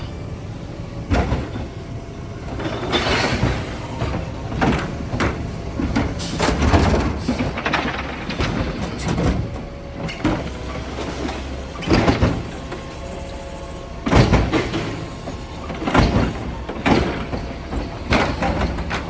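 Garbage truck collecting heavy trash: a dozen or so thumps and bangs of cans and bags going into the hopper at irregular one-to-two-second intervals, over the steady low rumble of the truck's running engine.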